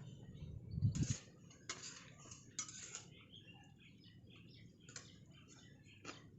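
Birds chirping in short scattered calls, with a few sharp ticks. A dull low thump comes about a second in.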